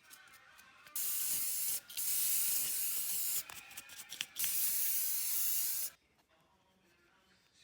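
Aerosol spray can hissing in three bursts of about one to one and a half seconds each, with a few small clicks between the second and third.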